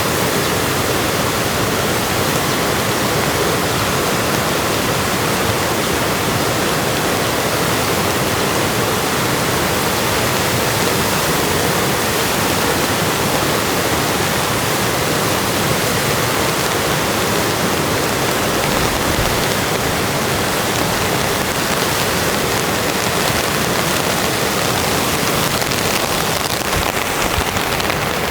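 Steady, even rush of water, a river running in the rain.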